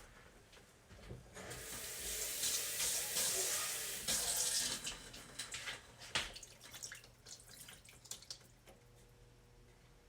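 Water running from a kitchen tap into a container for about three and a half seconds, followed by a few light knocks and clinks.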